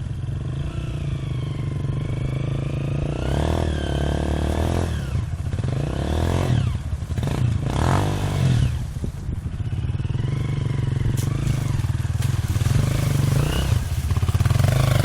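Dirt bike engine running, its revs rising and falling several times as the throttle is worked.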